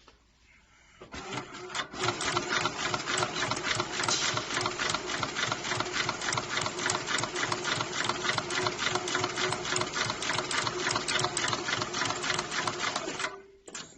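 Heavy-duty programmable pattern sewing machine stitching leather at a fast, even stitch rate. It starts about a second in, comes up to full speed within a second, and stops near the end, leaving a steady motor hum.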